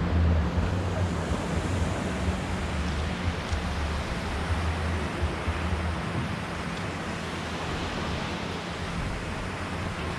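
Wind on the microphone and sea surf, over a low boat-engine drone that fades about six seconds in.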